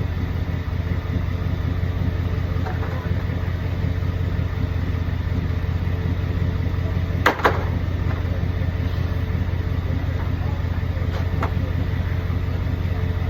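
2014 Ford F-150's 5.0 L Coyote V8 idling steadily in park. A sharp double knock about seven seconds in, and a faint click a few seconds later.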